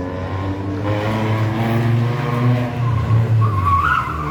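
Rally car engine revving hard under acceleration, its pitch climbing, with tyres squealing briefly near the end as the car slides in a drift.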